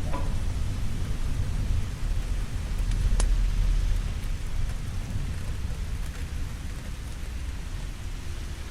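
Steady rain with a low rumble of thunder that swells about three seconds in and then eases off, and a couple of sharp crackles.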